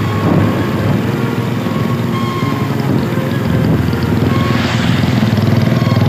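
Motorcycle engine running steadily through a loud aftermarket exhaust, with a rapid, even exhaust pulse.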